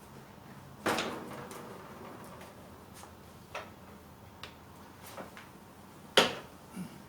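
Scattered knocks and clicks of heater fan parts and tools being handled and set down on a workbench. There is a sharp knock with a short ring about a second in, a few light ticks, and the loudest knock near the end.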